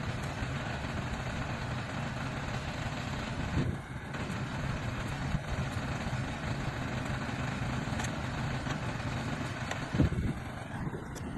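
Diesel engine of heavy earthmoving machinery running steadily, with a dull knock a little under four seconds in and another near the end.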